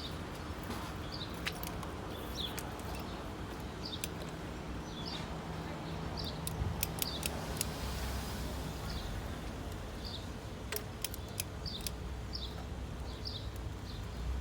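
A bird chirping repeatedly in short, high calls, with a few sharp clicks of hand tools, bunched about eleven seconds in, over a low steady hum.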